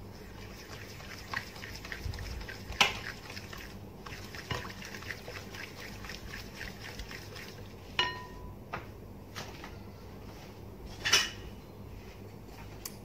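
A utensil beating cake batter in a mixing bowl, clinking quickly against the bowl for several seconds, with three sharp knocks on the bowl, the loudest near the end.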